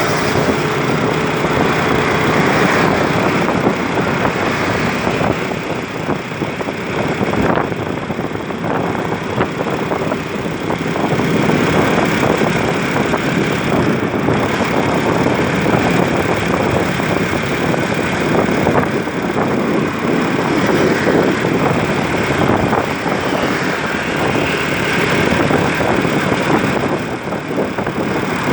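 Steady road and engine noise of traffic on the move, with a fuel tanker truck's diesel engine running close by as it drives past.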